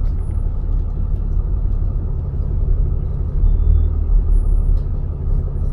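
Tow truck's engine running with a steady low rumble while the truck moves slowly around a parking lot.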